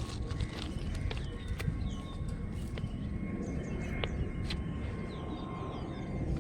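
Small birds chirping: many short, falling calls over a steady low rumble, with a few sharp clicks.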